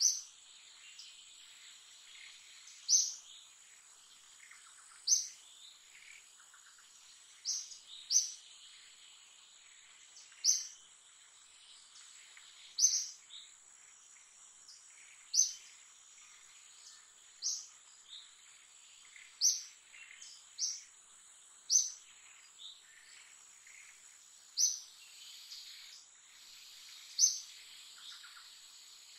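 A bird repeating a short, high call every two to three seconds, sometimes twice in quick succession, over a steady high-pitched insect drone.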